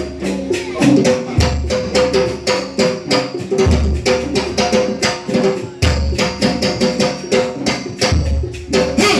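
Rhythmic percussion music: quick drum and wood-block-like strokes several times a second over a held mid tone, with a deep low beat about every two seconds.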